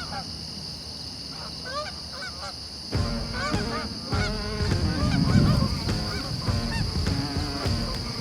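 A flock of Canada geese honking: scattered calls at first, then many overlapping honks, louder from about three seconds in.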